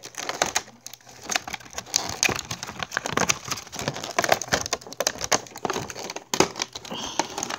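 Plastic packaging of a boxed scale model being handled and pried at: a dense run of rustles, crinkles and sharp clicks, with a louder snap about six and a half seconds in.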